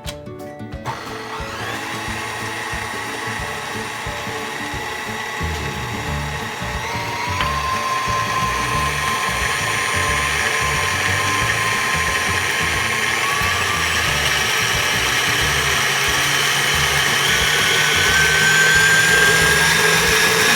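Electric mixer beating a cake filling at high speed. Its motor whine rises in pitch in a few steps as it runs, and it cuts off abruptly at the end.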